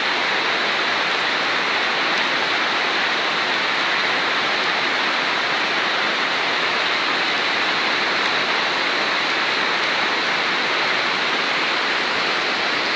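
Torrential rain pouring down steadily, mixed with the rush of floodwater running along the street.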